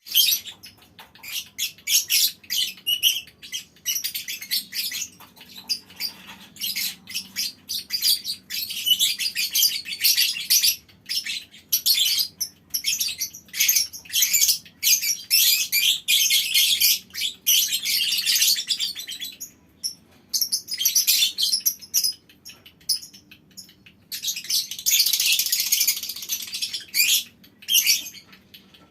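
A colony of lovebirds chattering in a small aviary: many rapid, shrill calls overlapping, running together in long continuous stretches of chatter with brief gaps between.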